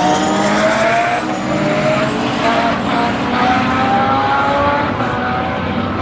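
Drag-racing superbike engine accelerating hard up through the gears. Its pitch climbs, then drops back at each of several shifts.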